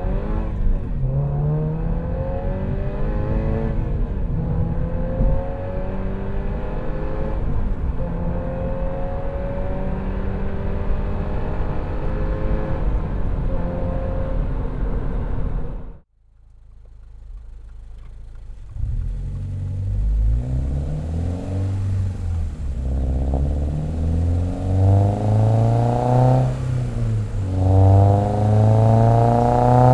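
2022 Subaru BRZ's 2.4-litre flat-four, fitted with equal-length catted headers, a catless front pipe and an MRT axle-back, accelerating through the gears: the revs climb and drop back at each shift. About halfway through the sound cuts off abruptly. It then returns heavier in the low end and pulls up through the revs several more times, loudest near the end.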